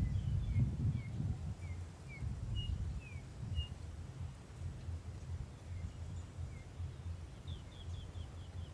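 Small birds calling in short chirped notes here and there, with a quick run of falling notes near the end, over a low, uneven rumble.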